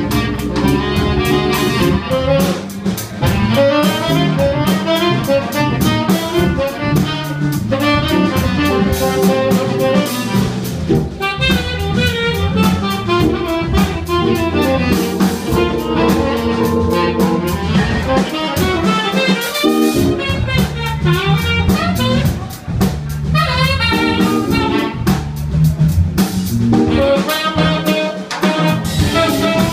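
Live jazz band playing: a tenor saxophone carries a melodic line over Hammond organ and a drum kit, with no pause.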